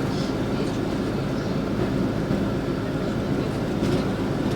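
LiAZ 5292.65 city bus heard from inside the passenger cabin while under way: a steady low engine and road rumble, with a few faint rattles.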